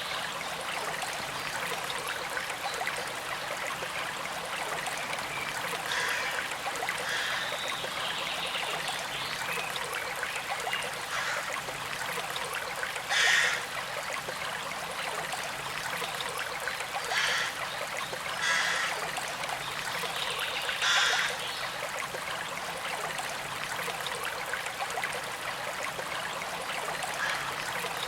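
Small stream trickling and flowing steadily over stones, with a few brief, louder splashes around the middle.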